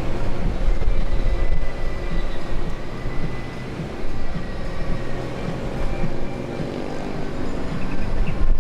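Jet airliner's engines running: a steady, loud low rumble with a faint high whine over it.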